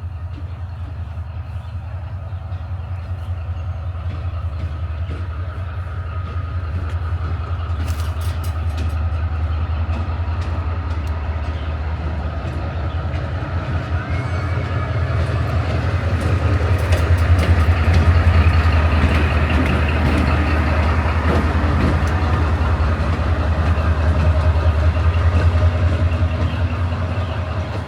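Metre-gauge train running on the rails: a steady low rumble that grows louder over the first half and then holds, with scattered clicks now and then.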